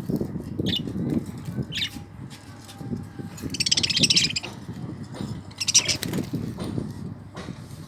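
Budgerigars chirping in short high calls, with a fast buzzy chatter about halfway through and another near the end. A continuous low rustling runs underneath.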